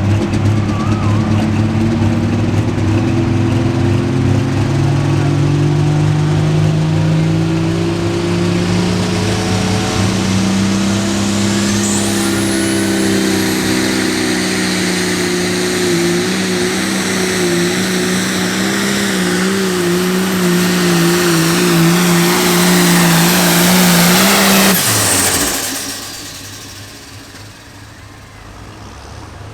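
Turbocharged diesel pulling tractor run hard down the track, its engine pitch climbing over the first dozen seconds while a high turbo whistle rises and then holds. About 25 seconds in, the engine note and whistle cut off abruptly as the engine is shut down at the end of the pull.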